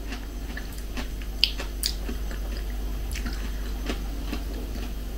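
A person chewing a mouthful of cooked rice, with a few small, sharp mouth clicks, over a faint low hum.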